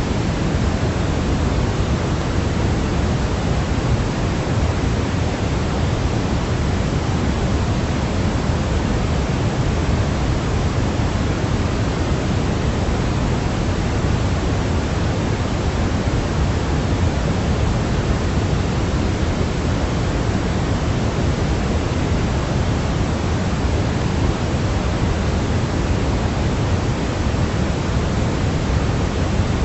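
Steady synthetic white-noise sleep sound for a baby: an even, unchanging hiss, heavier in the low end.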